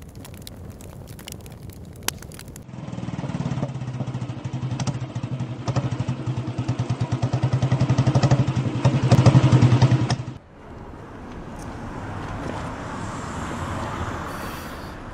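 A motorcycle engine running and drawing nearer, with a rapid pulsing note that grows louder for several seconds, then cuts off suddenly about ten seconds in. A softer steady hiss follows.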